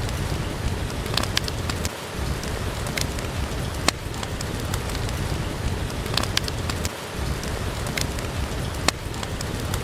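Steady rain falling, mixed with the crackling of a wood fire in a fireplace, heard as scattered sharp pops over the even hiss of the rain.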